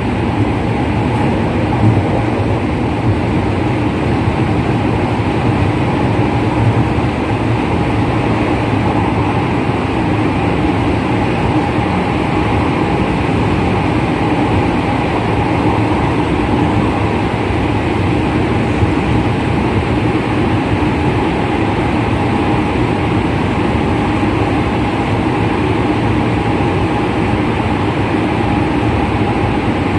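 Interior running noise of a JR West 207 series electric train at steady speed: a continuous rumble of wheels on rail with a steady hum from the original-type traction motors and gearing.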